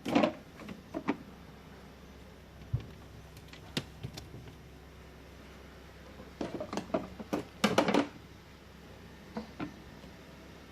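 Scattered knocks, clicks and rustles of objects being handled, with a dense burst of clattering about six to eight seconds in.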